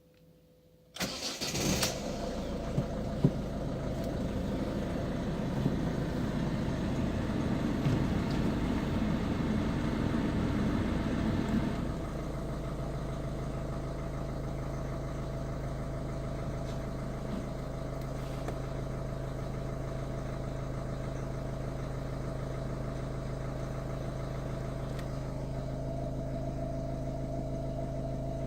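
Ford Focus 1.6 TDCi four-cylinder diesel engine cold-starting: the starter cranks briefly about a second in and the engine catches at once. It runs louder and rougher for about ten seconds, then settles to a steady, quieter idle.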